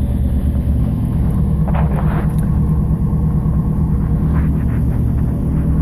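1987 Pontiac Trans Am's 305 LB9 V8 idling steadily at a raised cold-start idle of about 1100 rpm, its Megasquirt fuel injection running warm-up enrichment.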